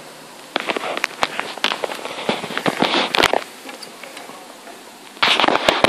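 Rain falling with a steady hiss, broken by two spells of loud, dense crackling and clicking, the first starting about half a second in and lasting nearly three seconds, the second starting near the end.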